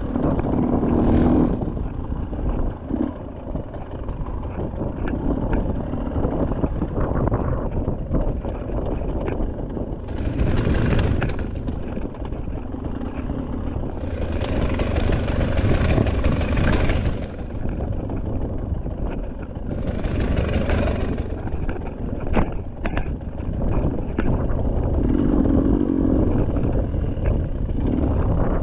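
Enduro dirt bike engine running as it is ridden, the throttle opening and closing, with several bursts of high hiss over the engine.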